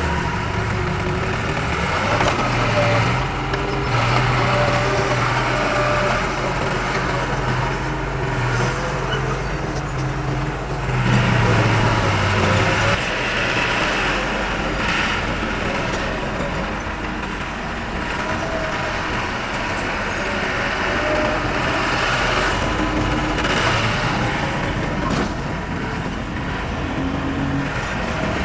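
Diesel engine of heavy earthmoving machinery running. A steady low engine note through roughly the first 13 seconds gives way to a rougher, noisier running sound.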